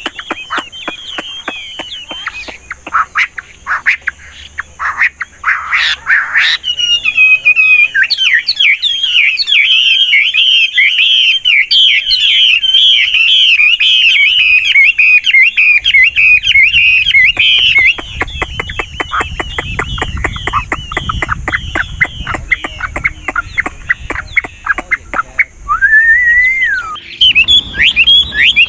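Chinese hwamei singing a long, rapid run of varied, constantly changing phrases, with a single rising-and-falling whistled note near the end.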